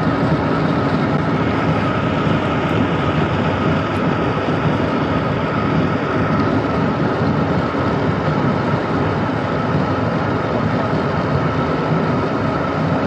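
Steady road noise of a car driving at cruising speed, heard from inside the cabin: tyre rumble and engine hum with a faint steady whine.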